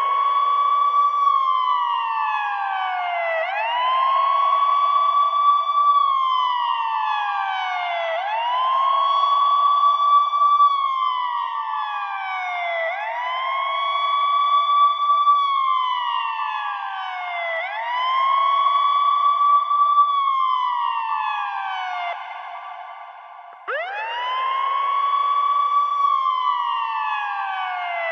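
Ambulance siren wailing: each cycle rises quickly in pitch, holds high for a moment, then slides steadily down, repeating about every four and a half seconds. A little over twenty seconds in it sinks low and drops away, then starts a new rise abruptly.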